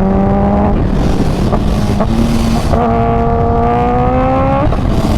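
Kawasaki Ninja H2's supercharged inline-four engine pulling under acceleration over heavy wind rush, its note climbing steadily in pitch. The climb breaks off under a second in, and a second climb runs from a little under three seconds in to near the end.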